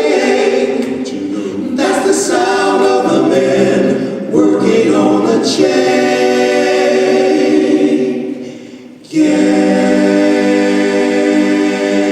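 A cappella vocal group singing wordless close-harmony chords, each held for a second or more; about three-quarters of the way in the voices fade almost away, then come back together on a loud held chord.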